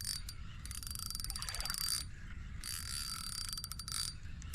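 Fishing reel clicking rapidly as it is cranked in bursts of a second or so, with short pauses between them, winding in a hooked fish.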